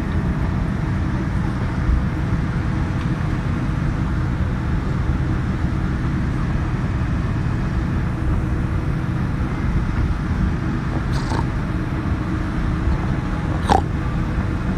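Steady cabin noise of a Boeing 787-9 Dreamliner taxiing, its engines humming under an even rush of air. Two brief sharp sounds cut through, one about eleven seconds in and a louder one near the end.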